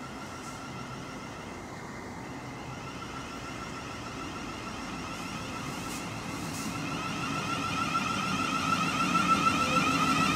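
South Western Railway Class 707 electric multiple unit (Siemens Desiro City) approaching, with a steady high electric whine over the rumble of the train on the rails, growing steadily louder as it nears.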